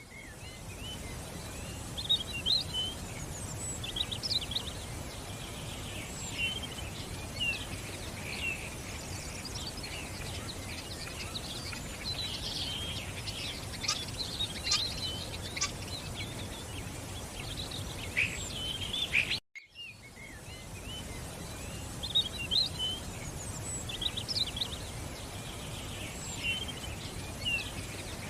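Several birds chirping and trilling in short, overlapping calls over a steady low background noise. The sound cuts out completely for a moment about two-thirds of the way through, then the birdsong resumes.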